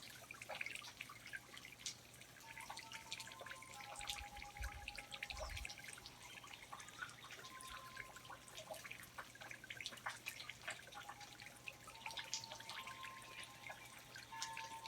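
Faint rainforest ambience of water dripping: scattered single drops patter irregularly. Thin, steady whistled tones near 1 kHz sound through it, each held for a second or two and overlapping at slightly different pitches.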